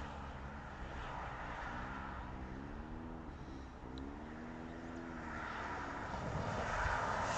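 Wind rumbling on the microphone, with a faint engine-like drone that rises and falls twice in the middle.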